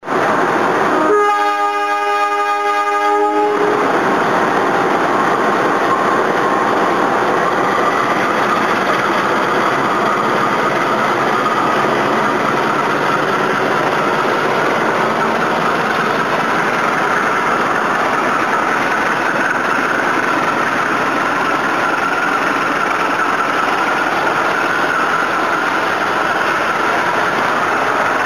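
A diesel locomotive's horn sounds once for about two seconds, then the train's steady running noise carries on as it pulls out and picks up speed, with a faint whine rising slowly in pitch.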